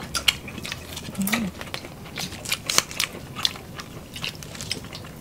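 Close-miked eating sounds from several people eating boiled shrimp and seafood by hand: irregular wet chewing, smacking and crackling clicks, with a brief hummed "mm" about a second in.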